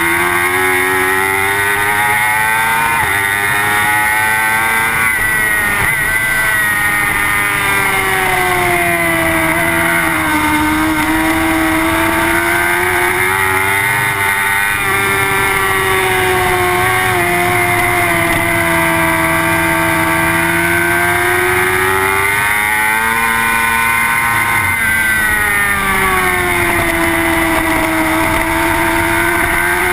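Suzuki GSX-R superbike's inline-four engine heard from on board at racing speed, its revs climbing and falling again and again as the bike accelerates out of corners and slows into them, over a steady rush of wind.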